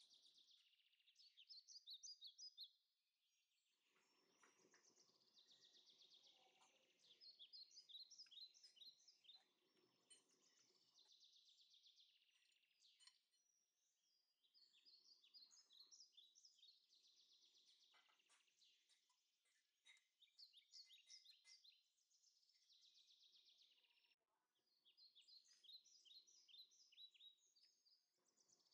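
Faint birdsong: short runs of quick, high chirps that come back every few seconds.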